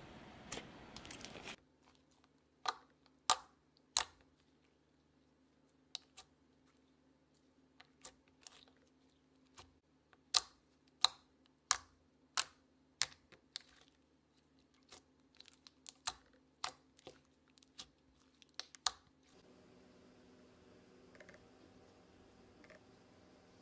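A series of sharp clicks and taps at irregular intervals, a few much louder than the rest, over a faint steady hum.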